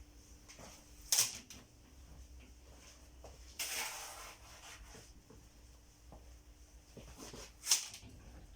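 Scrapes and knocks of thick concrete mix being worked into a fireplace mould: a sharp knock about a second in, a longer scraping rush at about three and a half seconds, and another sharp knock near the end.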